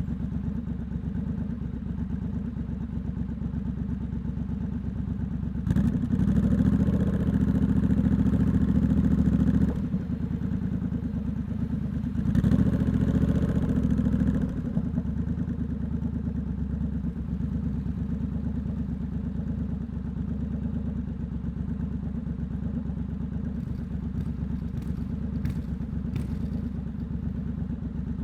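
Triumph Scrambler 1200 X parallel-twin engine running through a loud aftermarket Hitchcox exhaust, mostly at low steady throttle. It gets louder twice under throttle, first at about six seconds for several seconds, then again around the middle.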